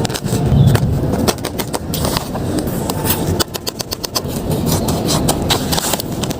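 Paper and packaging crinkling and rustling close to the mic as a handmade paper blind bag is handled and unwrapped: dense, irregular crackles over a low rumble of handling noise.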